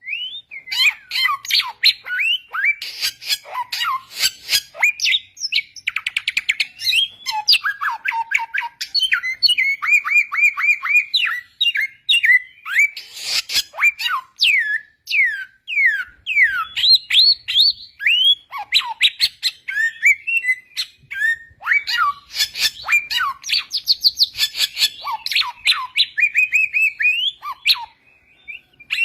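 A samyong songbird singing a fast, varied song of sliding whistled notes, chirps and rapid trills, almost without pause.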